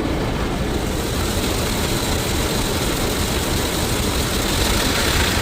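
Istobal M'Wash 3 rollover car wash's rotating brushes scrubbing the car under water spray, heard from inside the car as a steady wash noise.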